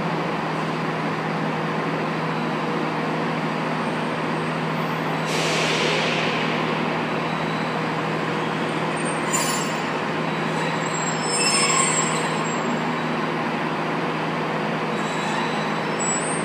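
ScotRail diesel multiple unit running slowly along the platform, its diesel engine humming steadily. A burst of hiss about five seconds in, and short squeaks around nine and twelve seconds.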